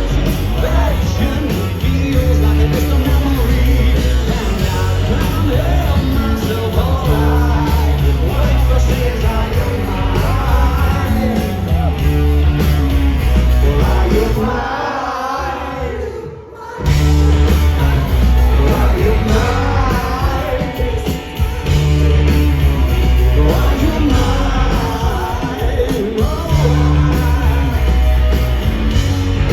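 Live rock band playing loudly in a concert hall, with electric guitars, bass, drums and singing. About halfway through the band briefly drops out for a couple of seconds, then comes back in full.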